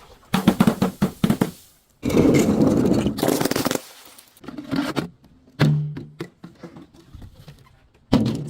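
Objects being crushed and broken: a quick run of knocks and cracks, then a dense crunching burst lasting about two seconds, followed by scattered knocks and a last hit near the end.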